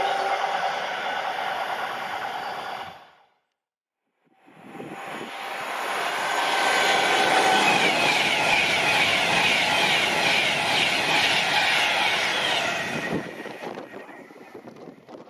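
A train passing at speed on a main line, cut off abruptly about three seconds in; after a second of dead silence a second train passes at speed, loud for about eight seconds, then the sound falls away to wind on the microphone.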